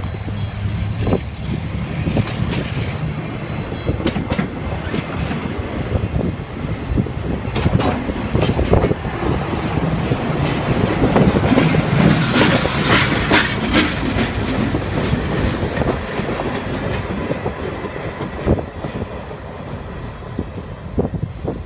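Slow maintenance-of-way work train passing close by: wheels clicking and clanking over the rail joints under a steady rumble, with the diesel locomotive's engine passing at the loudest point about halfway through before the train rolls away and fades.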